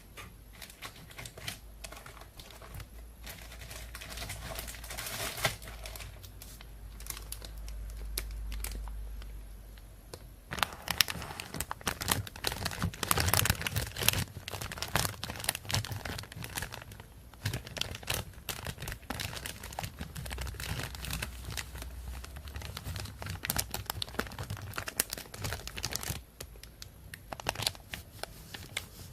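Thin plastic shopping bag crinkling and rustling as it is handled, in irregular crackles that grow busier and louder about ten seconds in.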